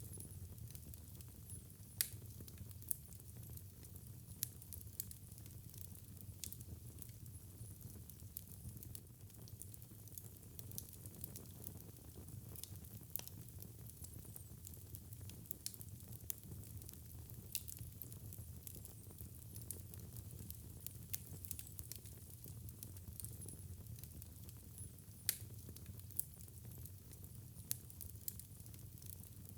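Wood fire crackling: scattered sharp pops and snaps over a low, steady rumble, the loudest pops about two seconds in and again near the end.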